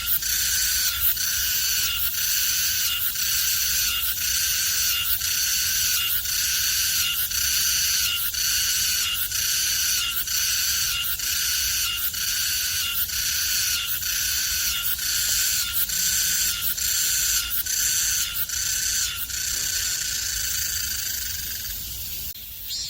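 Sseureum cicada (Meimuna mongolica) calling: a loud, high, buzzing song pulsing in a regular beat, about three pulses every two seconds. It stops about a second before the end.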